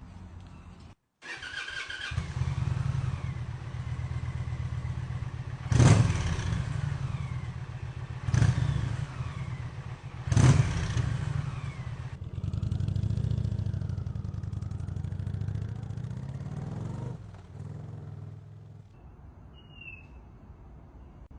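Indian Challenger's V-twin running through Rinehart 4.5-inch DBX45 slip-on mufflers: it comes in about a second in, is blipped three times in quick revs that fall back each time, settles to a steady idle, and dies down near the end. The slip-ons give a deep, throaty exhaust note.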